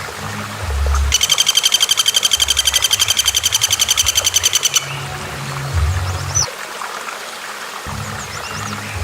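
A bird's rapid, high trill of evenly spaced notes, about ten a second, lasting nearly four seconds, followed a second later by a single short chirp. A steady wash of running water is underneath.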